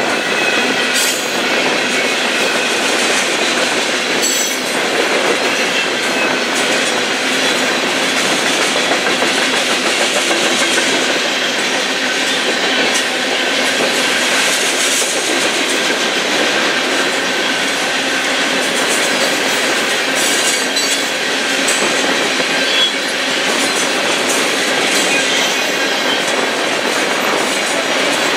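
Union Pacific two-bay covered hopper cars rolling past: a steady clatter and rumble of steel wheels on the rails, with a thin, steady squeal of wheels riding above it.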